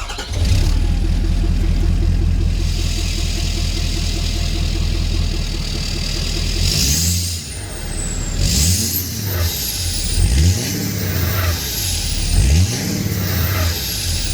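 Ford F350 6.7L Power Stroke V8 turbo-diesel idling steadily through its newly repaired 4-inch exhaust. About halfway through it is revved four times in quick succession, each rev bringing a high turbo whistle that rises and then slowly fades.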